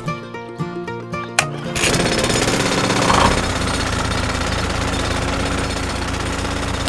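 Background music, then from about two seconds in a loud, steady mechanical rattle with a low hum: a toy tractor's motor-driven drill attachment boring into a bank of sand.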